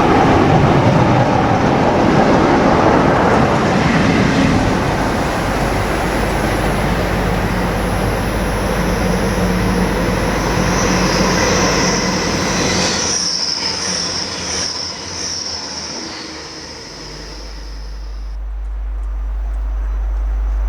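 A train running past on the rails, with a high wheel squeal through the middle of the passage that stops abruptly about three-quarters of the way in. Near the end a low steady rumble grows louder.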